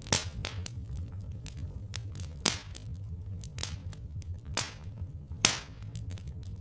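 Wood fire crackling: irregular sharp pops and snaps, three louder pops at the start, halfway through and near the end, over a steady low rumble.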